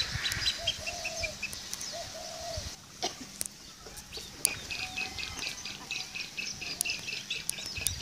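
Birds calling: two short, arched, lower-pitched calls in the first few seconds, and quick runs of high chirps at about five a second that grow dense in the second half.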